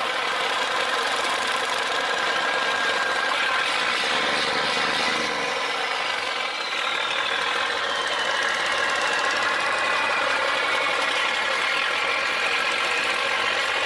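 Tugboat's diesel engine running steadily, its pitch slowly easing down over the second half.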